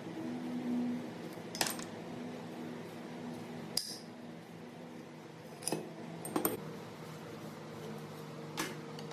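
Small metal parts or tools clinking, about five short sharp clinks spread a second or two apart, over a steady low hum.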